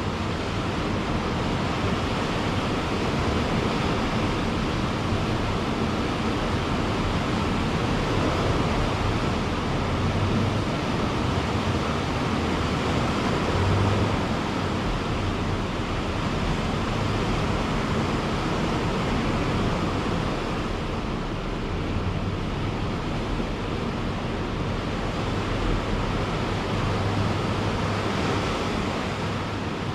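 Ocean surf on a beach: a steady wash of breaking waves that swells and eases gently, with no single distinct crash.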